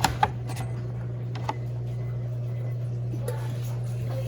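Mondial Baby BLK20 washing machine running in its rinse cycle with a steady hum, with a few short clicks near the start, as dark rinse water drains out and the tub begins to refill.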